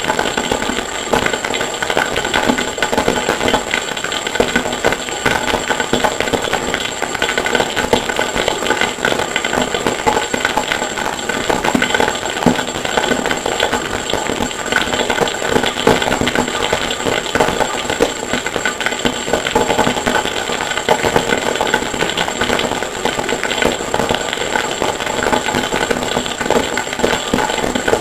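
Harsh noise music: a dense, unbroken wall of distorted noise at a steady level, with a thin high whine running through it.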